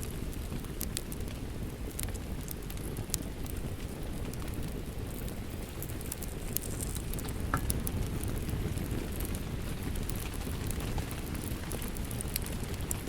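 Wood fire crackling, with scattered sharp pops and ticks, over a steady rush of rain.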